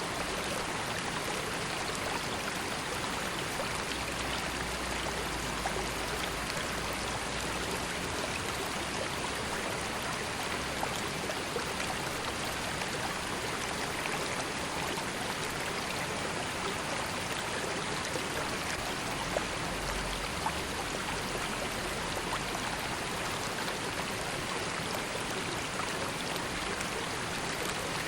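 River water flowing in a steady rush, with small splashes and drips scattered through it.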